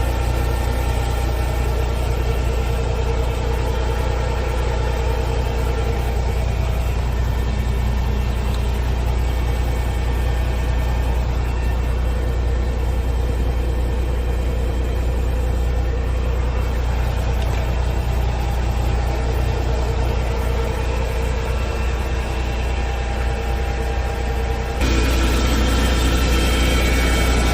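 Ford 4142P truck's 420 hp diesel engine idling steadily with a deep hum, stepping up abruptly in level near the end.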